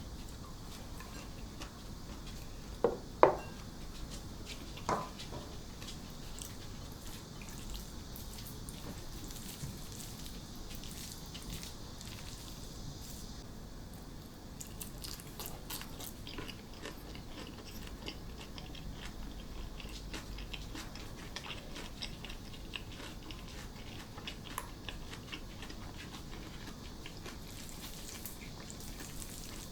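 Close-up eating sounds: chewing and biting, with many small crisp crunches through the second half and two louder sharp sounds around three and five seconds in.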